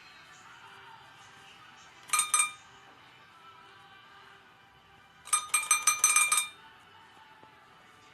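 A small bell rung in quick repeated strikes: a short burst of a few rings about two seconds in, then a longer run of about eight rapid rings a little past five seconds.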